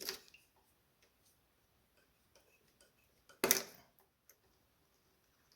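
Light metallic clicks and taps of hand tools fitting spark plugs into a tractor engine, with one louder, short clatter about three and a half seconds in.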